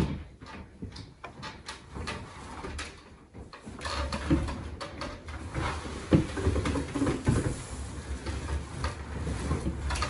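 A large clear latex balloon and a white wooden rocking chair being handled and climbed on, with scattered short knocks and rubbing noises and a sharper knock about six seconds in. The balloon does not pop.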